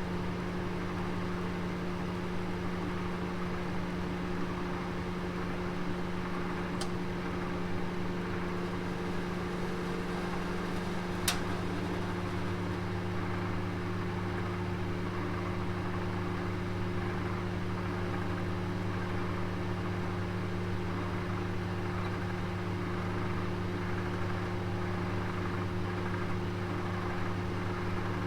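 Oven running with a steady hum over an even rush of air, a deeper note coming in about eleven seconds in. A few faint clicks, the sharpest one about eleven seconds in.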